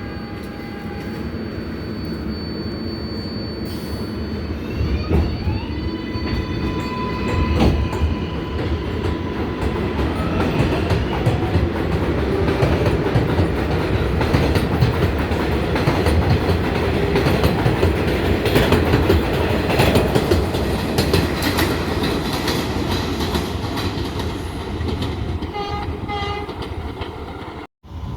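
R188 subway train in motion on the IRT Flushing Line: a steady, loud rumble of wheels on the rails with clacking over the track joints. For the first several seconds, rising motor tones are heard as the train picks up speed.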